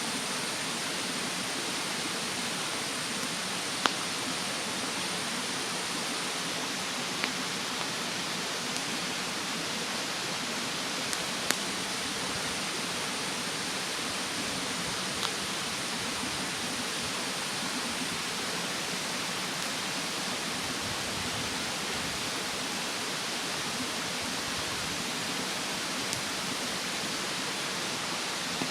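Steady rush of a mountain stream, with a wood fire in a fire stand giving a few sharp crackling pops over it, the loudest about four seconds in.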